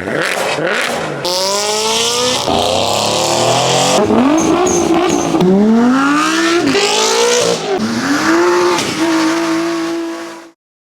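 Performance car engines revving hard and accelerating, heard as a string of short clips cut abruptly one after another, each rev's pitch sweeping up and falling back.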